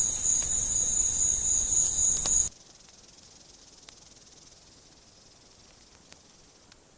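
Forest insects, crickets or cicadas, shrilling in steady high tones over a loud rushing noise. About two and a half seconds in, both cut off suddenly, leaving a faint hiss with a few small clicks.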